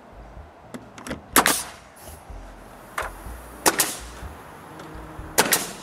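Nails being driven into pine siding planks: sharp strikes, the loudest three coming as quick doubled hits about every two seconds, with a couple of lighter taps early on.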